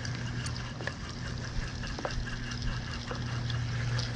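Scattered small splashes and ticks at the water's surface, as fish feed on a school of bait, over a steady low hum.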